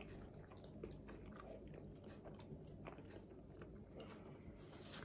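Faint chewing of curly fries, with scattered small crunches and mouth clicks.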